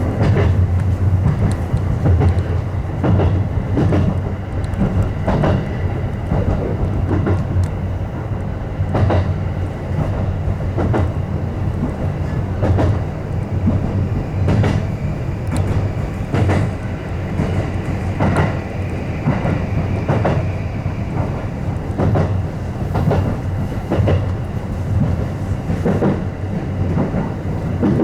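Electric commuter train running steadily along the track, with a continuous low rumble and irregular clacks as the wheels pass over rail joints, heard from inside the leading car.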